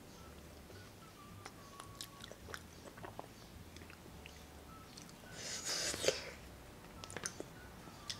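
Quiet chewing of chili cheese fries, with scattered small clicks of a plastic fork against a foam takeout box. There is a brief louder rush of noise about five and a half seconds in.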